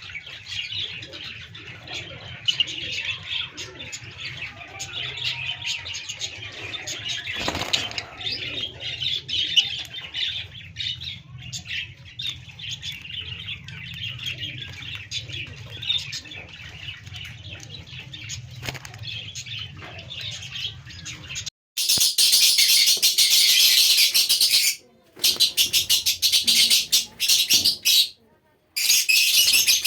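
Many caged small birds chirping and chattering continuously over a low steady hum. About two-thirds of the way in, the chatter becomes much louder and denser, broken by a few sudden drop-outs.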